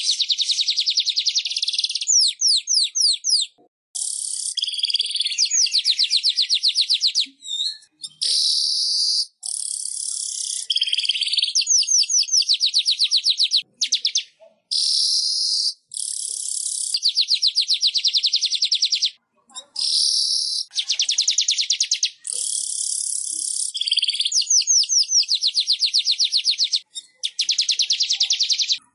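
Weaver bird (manyar) song: high buzzy phrases one to two seconds long, some a very rapid ticking rattle, others a harsh wheezy buzz, repeated one after another with short pauses.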